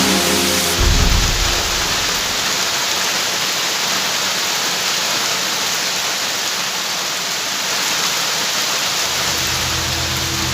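Steady rain, a dense even hiss, with a brief low rumble about a second in. Low held tones, like background music, come in near the end.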